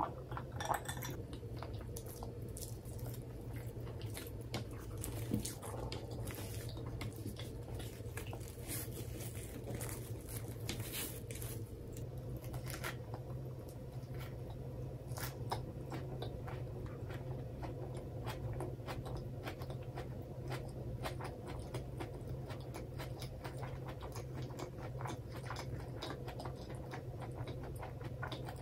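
Close-miked chewing and crunching of crisp lettuce leaves: many small, crisp crackles with each bite, busiest in the first half, over a steady low hum.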